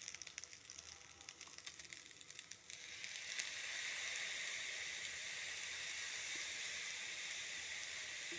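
Sinangag (fried rice with onion and garlic) frying in a small kawali: light crackling at first, then about three seconds in a steady, louder sizzle sets in.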